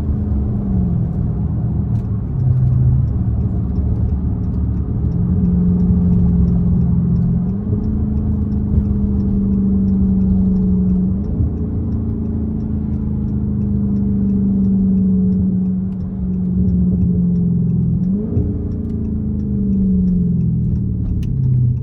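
Straight-piped Dodge Charger Scat Pack's 392 HEMI V8 exhaust under way. The note holds steady for long stretches, falling away and climbing again several times as the car eases off and accelerates, with a quick rise in revs about 18 seconds in.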